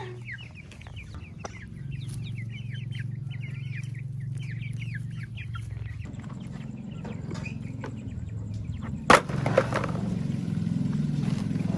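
Chickens calling, with many short high cheeps in quick succession for the first half, over a steady low hum. A single sharp knock about nine seconds in is the loudest sound, followed by a brief squawk.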